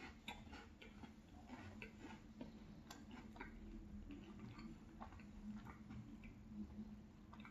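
Faint, irregular clicks and small crunches of a person chewing a yogurt-dipped chocolate cookie with the mouth closed.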